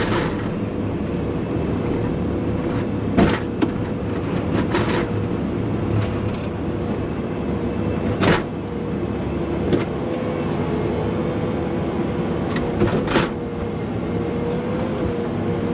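Diesel engine of a farm loader running steadily with a constant whine, and a few sharp knocks and clanks along the way.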